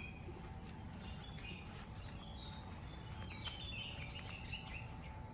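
Faint outdoor ambience: scattered short bird chirps over a steady low background noise.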